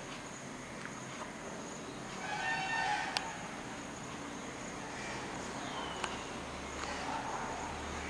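A single harsh bird call with many overtones, lasting under a second, about two and a half seconds in, over steady outdoor background noise. A sharp click comes just after it, and a faint short falling whistle comes near six seconds.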